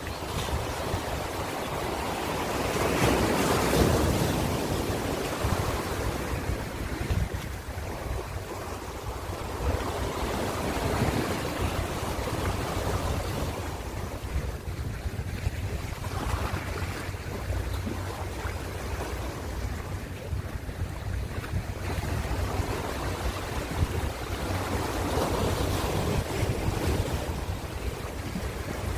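Ocean waves washing on a shore: continuous surf hiss over a steady low rumble, swelling as each wave breaks every several seconds, the biggest swell a few seconds in.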